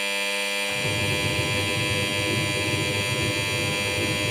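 Onida Liliput washing machine's end-of-timer buzzer sounding continuously as a steady electric buzz, with a lower, rougher buzz joining in under a second in. The wash timer has run down to zero and the machine is about to switch itself off.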